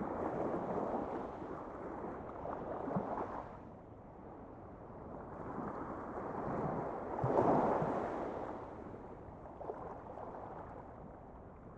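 Rushing, noisy ambience that swells and fades in slow surges, loudest about seven and a half seconds in.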